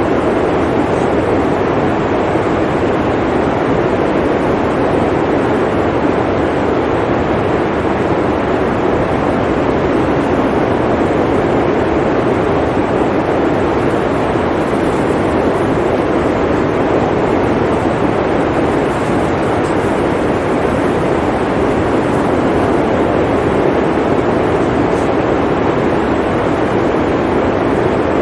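Steady blizzard wind: an even, unbroken rushing noise with no gusts, breaks or distinct events.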